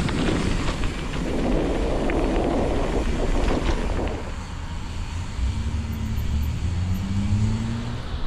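A motor vehicle's engine over low rumbling noise, its tone rising slowly in pitch during the last few seconds.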